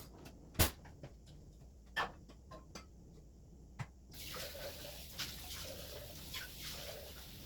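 Dishes and utensils knocking together at a kitchen sink, then the kitchen tap turned on and running for about three and a half seconds, with a loud knock of a dish as it ends.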